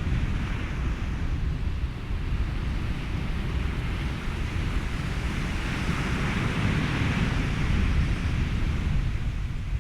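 Ocean waves with wind and a steady white-noise hiss over a deep, constant rumble; a wave swells and washes through about six seconds in.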